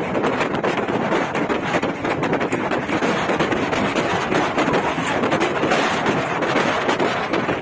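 Steady rushing noise of highway traffic with wind buffeting the microphone.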